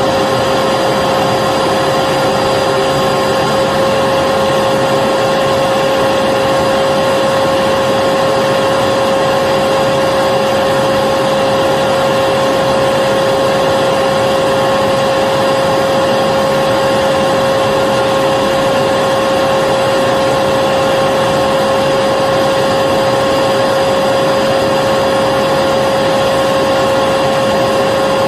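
Vacuum cleaner running continuously: a steady rushing of air with a constant motor whine that does not change in pitch or level, used as white noise for a baby's sleep.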